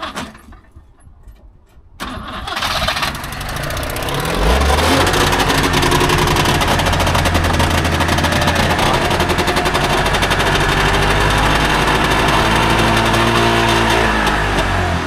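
Trabant 601's two-cylinder two-stroke engine being cranked by the starter for about two seconds, catching about four seconds in and then running steadily, with the revs sagging near the end. It is the car's first start after not running, and it catches and runs well.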